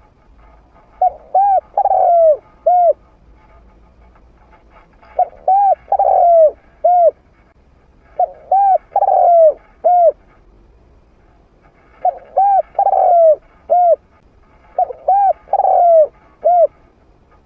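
A spotted dove cooing in a mid-pitched voice: five phrases, each of four to five rising-and-falling coos, repeated about every three to four seconds.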